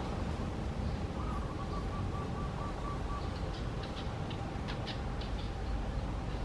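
Short, high bird chirps, a cluster of them about halfway through, over a steady low outdoor rumble, with a faint warbling tone about a second in.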